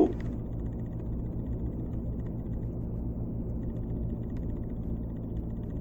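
A steady low hum and rumble with no distinct events.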